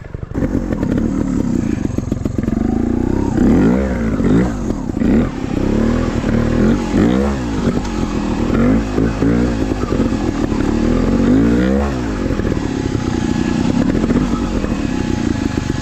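Trials dirt bike engine close by, its revs rising and falling in repeated throttle blips about once a second from a few seconds in, settling back between them.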